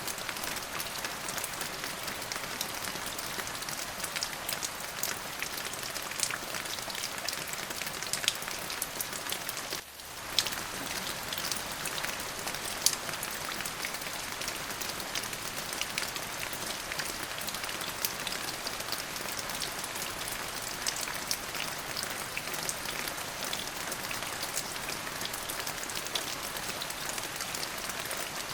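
Steady rain, a dense even hiss with many individual drops ticking on a hard surface. The sound dips out for a moment about ten seconds in.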